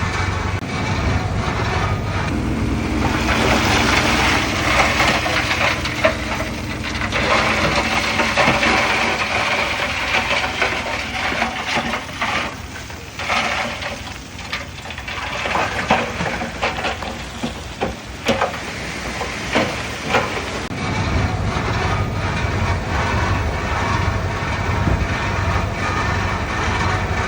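Crawler bulldozer working: its diesel engine running steadily, with metallic clattering and scraping in between and a run of sharp knocks about halfway through.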